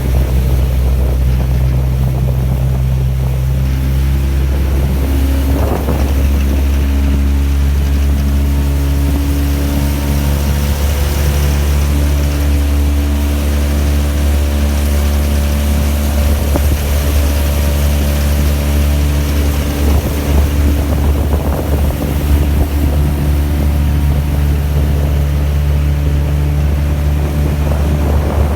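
15 hp outboard motor running steadily as the boat moves under way, with its pitch shifting a few times, and water and wind noise on the microphone.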